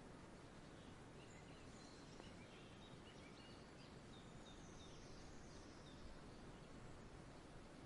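Faint outdoor nature ambience: a steady low hiss with scattered faint bird chirps, most of them in the first half.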